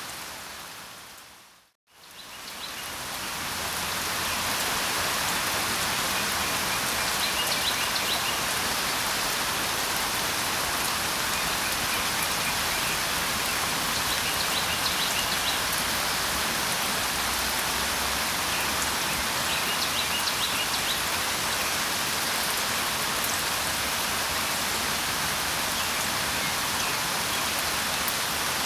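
Steady heavy rain falling, which fades out to silence about two seconds in and fades back up. A bird chirps faintly three times over the rain, in short bursts about six seconds apart.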